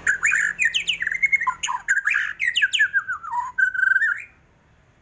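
White-rumped shama singing a fast, varied run of whistled notes and quick pitch sweeps, ending on a held whistle that rises as the song stops about four seconds in.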